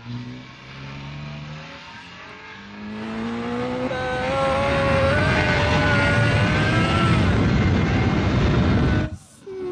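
2009 Suzuki GSX-R 600's inline-four engine accelerating under way, its pitch climbing in steps through the gears, then holding a high, steady note with wind rushing over the microphone. The sound cuts off abruptly near the end.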